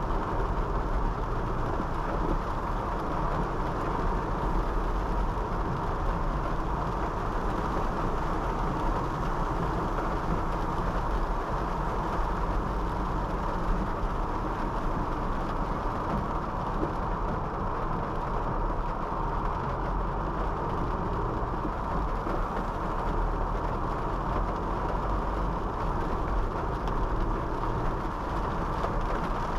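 Honda City 5th Gen sedan driving on a rain-wet road: a steady rushing of tyre and road noise with the engine low underneath, unchanging throughout.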